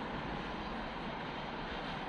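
Steady rumbling noise of a train running at the station, with no separate clatters or squeals.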